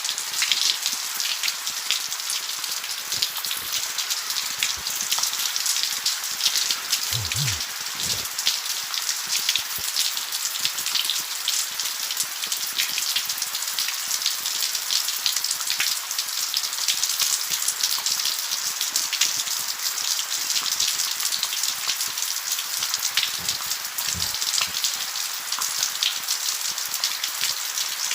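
Steady rain falling, a dense even hiss made of countless drop hits, holding the same throughout.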